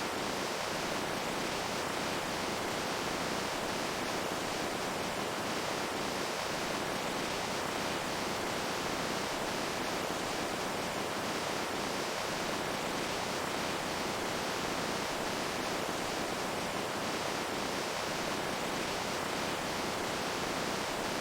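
Running water making a steady, unbroken rushing hiss.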